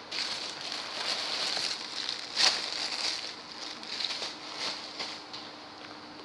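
Packaging crinkling and rustling as items are handled, with many small clicks and one sharp louder click about two and a half seconds in.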